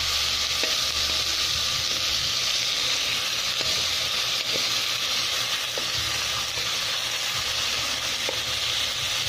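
Pork bones searing in hot oil in a pot, a steady frying sizzle, as they are stirred with a wooden spatula.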